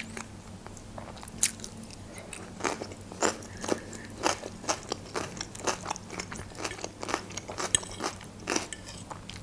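Close-miked eating: someone biting and chewing crunchy cucumber slices with mashed potato, giving irregular sharp crunches and wet clicks about once or twice a second.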